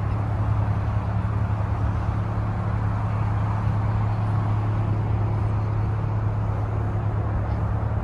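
A car engine idling steadily: a low, even hum with no revving, over a general background haze.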